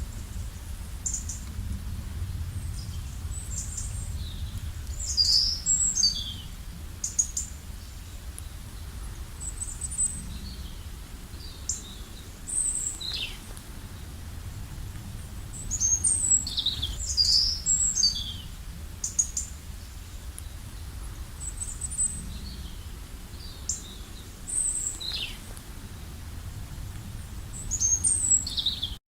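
Small birds chirping and calling in short, high-pitched notes and quick falling whistles, coming in clusters every few seconds over a low steady rumble.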